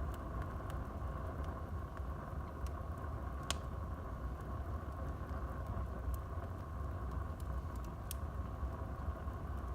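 Wood fire burning in a fireplace: a steady low rumble and hiss with scattered sharp crackles and pops, one louder pop about three and a half seconds in.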